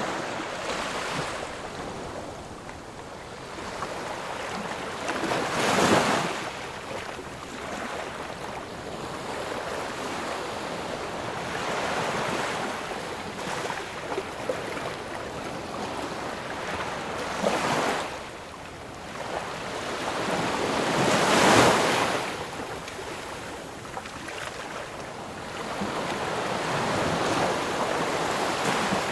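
Ocean surf: waves rolling in and washing back in a continuous rush of water, with two louder breakers, one about six seconds in and a bigger one about two-thirds of the way through.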